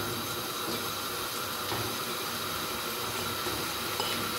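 Sliced mushrooms frying in warm oil in a frying pan, a steady faint sizzle, with a few soft taps as more slices are dropped in.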